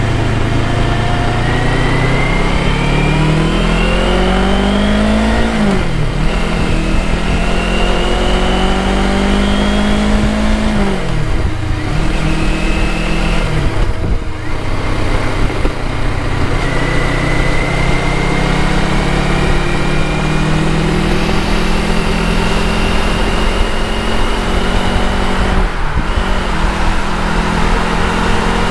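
Motorcycle engine accelerating up through the gears. Its pitch rises, then drops sharply at upshifts about six and eleven seconds in, before holding a steadier cruising pitch with a brief dip near the end. A steady rush of wind and road noise runs under it.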